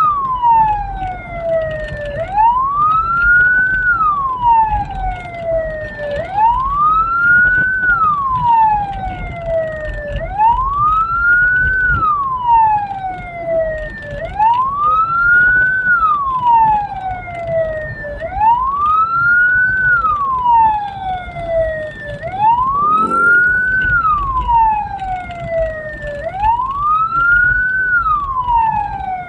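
Hearse siren wailing: a tone that rises quickly and falls slowly, repeating about every four seconds, over a steady low rumble from the moving vehicle.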